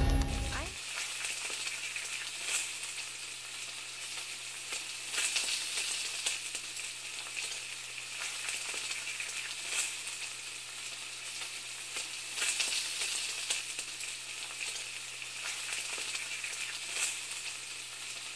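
Food frying: a steady, crackling sizzle that starts about a second in.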